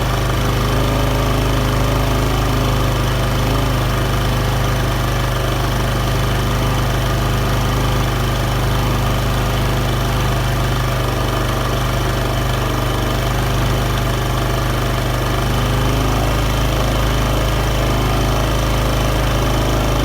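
A vehicle engine runs steadily at light throttle, with the drivetrain making an abnormal noise.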